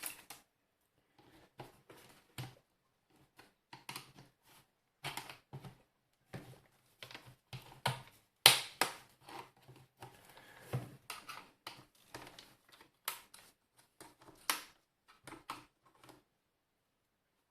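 Plastic clicks and knocks from a steam iron's plastic housing being handled and pried apart, in irregular bursts, with a sharp snap about eight and a half seconds in.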